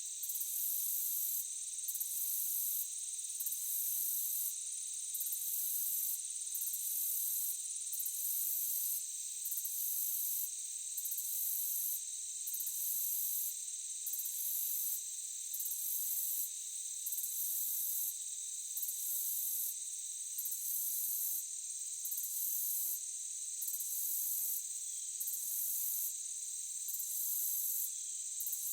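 Insect chorus in a forest: a steady high trilling, with an even higher trill over it that breaks off briefly about every second and a half in a regular rhythm.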